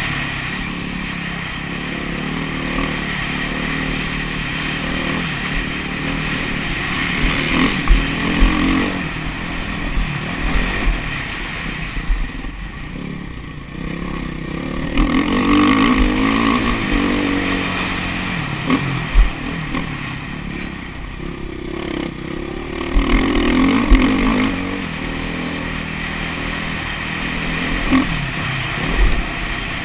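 Off-road motocross motorcycle engines running on a track, their revs rising and falling in repeated swells as the bikes accelerate and back off. Short low thumps come every few seconds.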